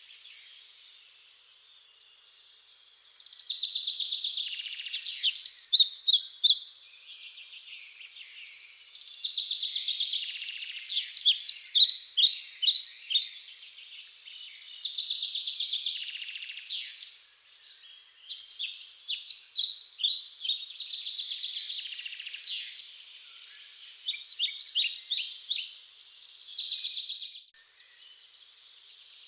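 Songbirds singing: phrases of quick, high chirps and trills a few seconds long, following one another with short pauses.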